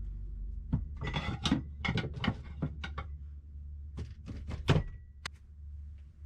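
A run of knocks and clicks, as of a camper door being unlatched, opened and shut, with a brief squeak twice; the loudest knock comes about five seconds in, followed by a sharp click. A steady low hum runs underneath.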